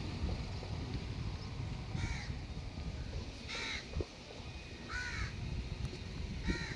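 A bird gives four short, harsh calls about a second and a half apart, over a steady low background rumble.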